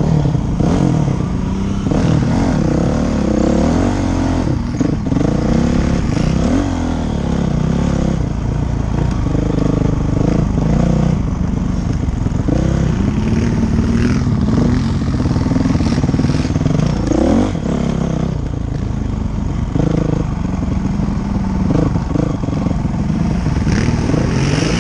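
Dirt bike engine running hard as it is ridden, its pitch rising and falling again and again as the throttle is opened and closed.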